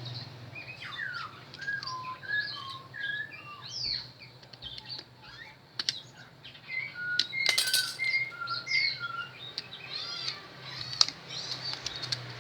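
Small birds chirping repeatedly in short, quick calls, over a low steady hum, with a few sharp clicks.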